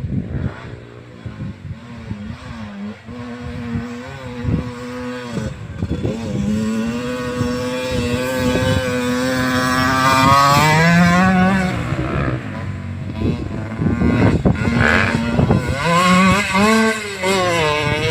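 Motocross bike engines running and revving as the bikes are ridden, the pitch rising and falling; one climbs to a peak about ten seconds in and then drops, and another revs up and down near the end.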